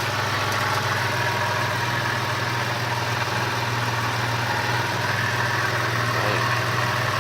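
1993 Mitsubishi 3000GT's DOHC V6 idling steadily.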